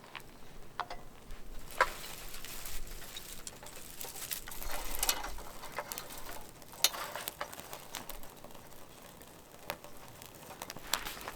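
Irregular clicks, knocks and short rustles of objects being handled.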